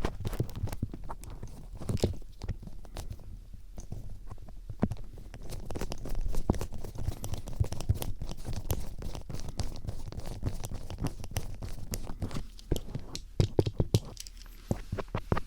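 Mock ear cleaning with a Phillips screwdriver: close, dense scratching and crackling with many irregular sharp clicks and taps as the metal tip scrapes against the microphone.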